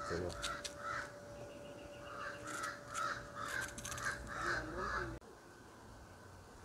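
Repeated harsh bird calls, a few near the start and then a quick run of about three a second, cut off suddenly about five seconds in.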